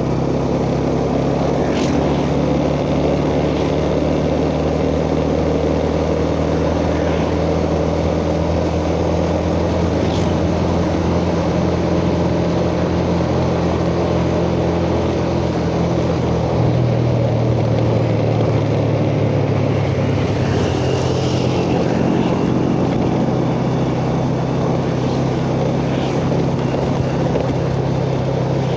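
Yamaha Jupiter Z underbone motorcycle's single-cylinder four-stroke engine running steadily while riding, with road and wind noise; the engine note shifts a little a bit past halfway.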